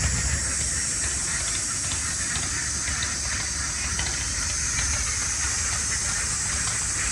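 Steady high-pitched hiss of outdoor ambience over a low rumble, with faint scattered ticks.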